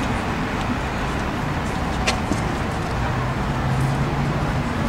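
Steady rumbling background noise, with a single sharp click about two seconds in.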